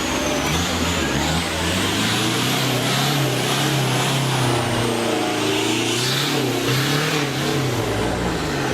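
Off-road 4x4 engine revving up and down, the pitch rising and falling repeatedly, with a thin high whine gliding above it.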